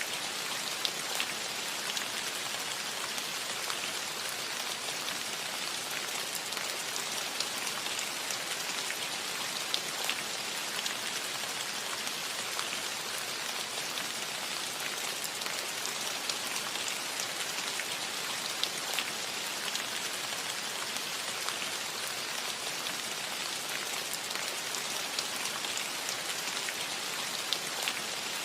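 Steady rain falling on a cottage roof: an even hiss with many scattered drops ticking through it.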